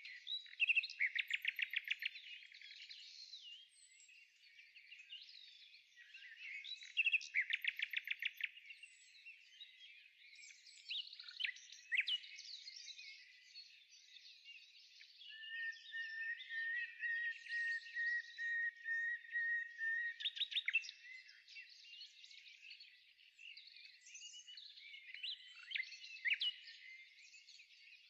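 Several songbirds singing and chirping, with fast rattling trills of rapidly repeated notes about a second in and again around seven seconds, and one long steady high trill near the middle.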